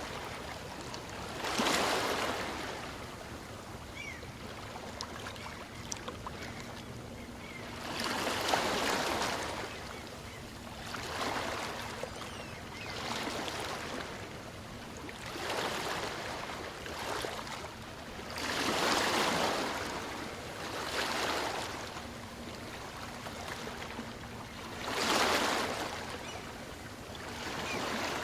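Small waves on a calm sea washing in and breaking on a beach. Each one is a swell of surf hiss that rises and falls away every few seconds over a steady wash of water.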